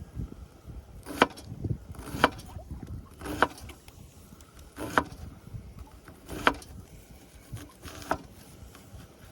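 A series of six sharp knocks, about one every second or so, over a low rumble.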